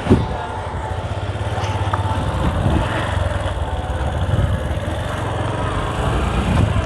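Bajaj Platina 125's single-cylinder four-stroke engine running with a steady low rumble, with a short thump right at the start.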